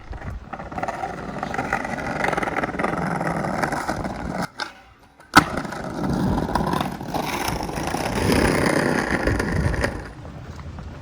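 A train rumbling and rattling past on the tracks, with a steady rolling noise. It breaks off abruptly for about a second halfway through, then carries on and fades near the end.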